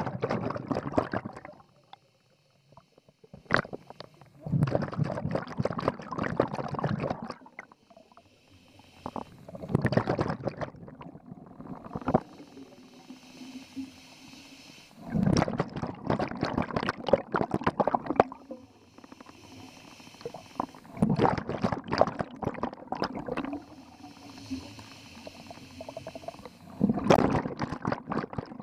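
A scuba diver breathing through a regulator underwater. Exhaled bubbles gurgle out in bursts about every five to six seconds, and a fainter hiss of inhalation comes between them.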